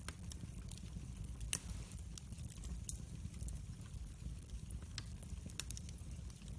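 Wood fire burning: a steady low rumble of flames with frequent scattered crackles and pops, one sharper pop about one and a half seconds in.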